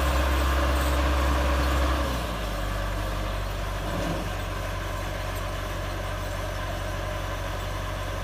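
Massey Ferguson tractor's diesel engine running steadily, dropping to a quieter, lower note about two seconds in and holding there.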